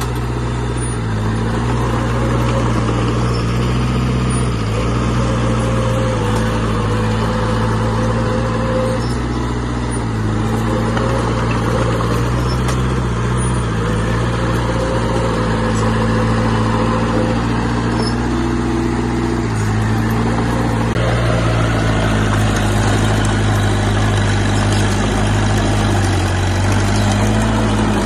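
Heavy diesel earthmoving machinery running continuously, its engine note stepping up and down a little as the load changes.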